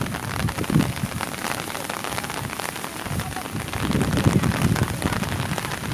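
Steady rain, with many sharp taps of drops close by and a low rumble that swells about four seconds in.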